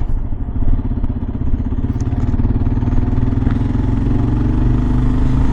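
Kawasaki KLR 650's single-cylinder engine running under way, its note climbing slowly as the bike picks up speed.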